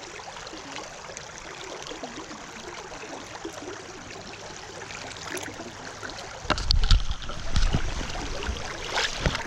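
A river stream flowing steadily. From about six and a half seconds in, louder, irregular sloshing and splashing of water close to the microphone.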